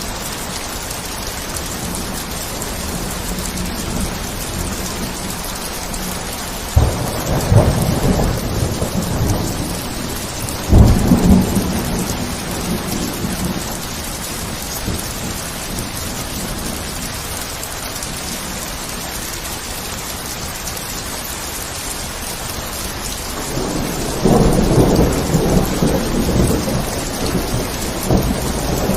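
Steady heavy rain with thunder rolling three times: a rumble about seven seconds in, a sharper clap about eleven seconds in that rumbles on for a couple of seconds, and a longer rumble from about twenty-four seconds in.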